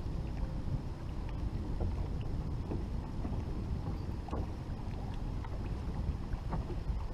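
Wind rumbling on the microphone aboard a fishing boat, with scattered light ticks and a faint steady whine behind it.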